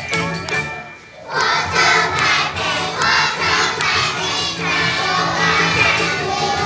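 A group of young children singing loudly together over backing music, starting after a brief lull about a second in.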